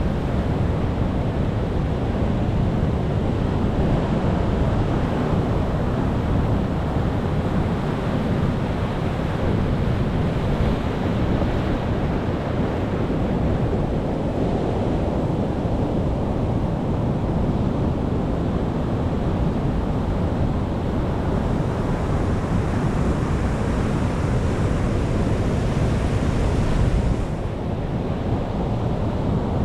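Sea waves breaking and washing in, a continuous rush with a heavy low rumble, with wind buffeting the microphone. A bigger surge swells up about two thirds of the way through and drops away suddenly near the end.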